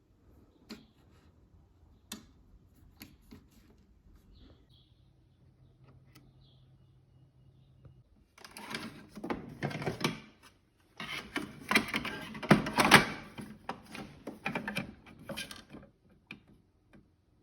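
Keurig coffee maker running: a few light clicks and a faint hum, then from about eight seconds in loud spitting and gurgling, twice with a short break between.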